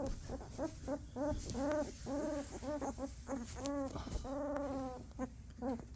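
Two-week-old Belgian Malinois puppies whimpering: a string of short, high whines that rise and fall, about three a second, with a longer whine a little after the middle.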